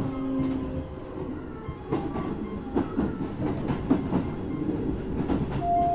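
Keisei 3700 series electric train running, heard from inside the car just behind the cab as it nears its final stop: wheels clicking over rail joints and points over a steady rumble. The Toyo GTO-VVVF inverter gives a low steady tone that stops about a second in, and a higher tone sets in near the end.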